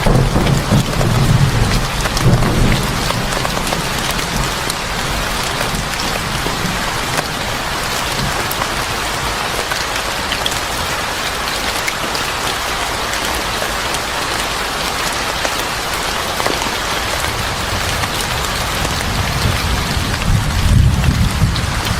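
Steady heavy rain falling on a surface, an even hiss, with low rolls of thunder rumbling in the first few seconds and again near the end.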